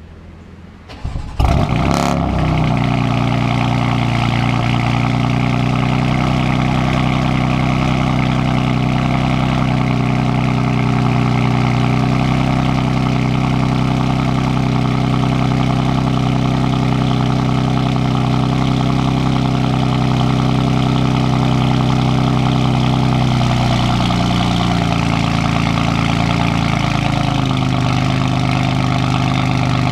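BMW M4 F82's twin-turbo inline-six cold-starting through a straight-through custom exhaust (downpipes, cat and resonator delete, X-pipe, valved tips). The starter cranks briefly about a second in, the engine catches with a loud flare, then it settles into a steady, raised cold idle. The idle drops a little lower about three-quarters of the way through.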